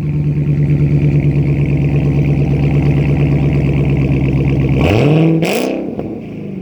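Car engine with a straight-piped exhaust, running loud and held at a steady raised idle, then revved up and let fall back near the end.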